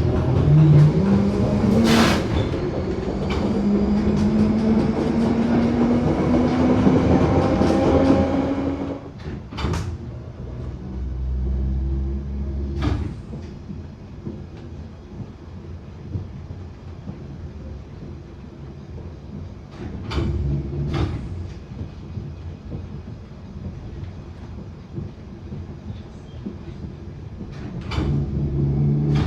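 London Underground 1972 stock train pulling away, its motor whine rising in steps for about the first eight seconds, then dropping away as it runs on more quietly. Sharp pops break through every few seconds, the popping sound this train makes after departing.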